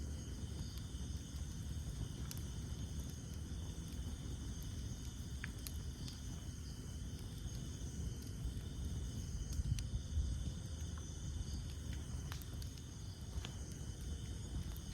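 Campfire burning with a steady low rumble of flames and sparse sharp crackles and pops of burning wood, two louder pops about ten seconds in. Insects chirr steadily and high in the background.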